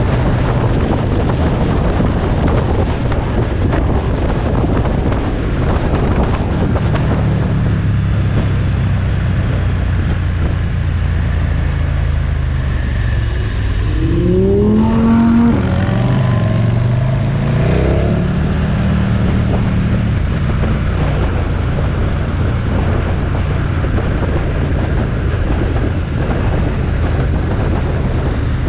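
Motorcycle engine running at road speed under heavy wind rush. About halfway through, the engine pitch climbs, falls back and climbs again as it accelerates.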